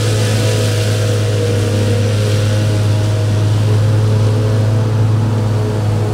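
Large farm-machinery diesel engine running steadily with a deep, constant hum and broad mechanical noise.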